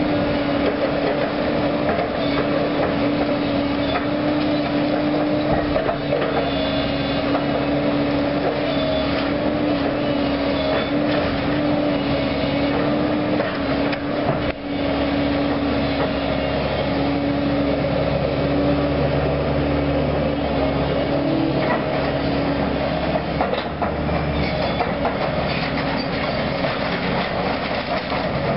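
Heavy demolition machine working steadily: its diesel engine and hydraulics run with a constant whine, and scattered knocks and clanks come through as debris is moved.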